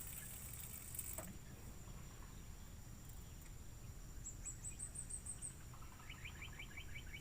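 Riverside ambience: a steady high insect drone, with a brief hiss in the first second. Birds call in two quick runs of repeated notes, high chirps around the middle and a lower series of about eight notes near the end.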